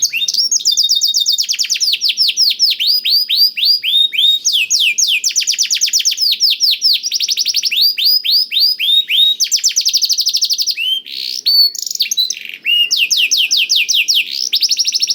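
Domestic canary singing a long song laced with learned blackthroat phrases: fast runs of quickly repeated, downward-sweeping whistled notes that change from one run to the next. There is a brief pause about two-thirds of the way through.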